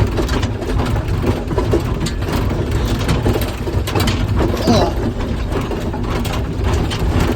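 Inside the cab of a Bell articulated rock truck jolting over rough ground: a steady low engine drone under loud, irregular rattling and clanking of the cab and its fittings.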